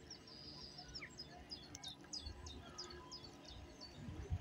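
A small songbird singing: a quick run of short, high, down-slurred chirps repeated several times a second, over a low rumble of wind on the microphone.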